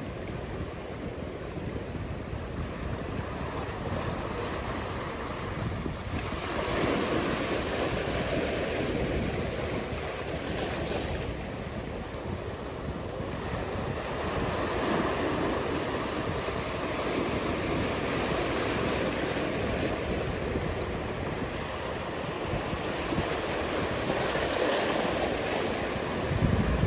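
Ocean surf: waves breaking and washing in as a steady rush that swells louder several times, with wind buffeting the microphone and a short low gust near the end.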